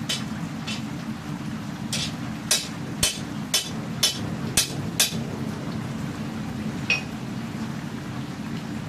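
Hammer striking the steel of a katana blade on an anvil: a few separate blows, then a run of six ringing strikes about two a second, and one last blow near the end. A steady low rushing sound runs underneath.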